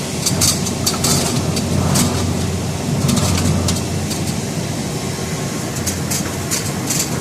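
Industrial bubble vegetable washing machine running: a steady low motor hum with short, irregular crackles over it.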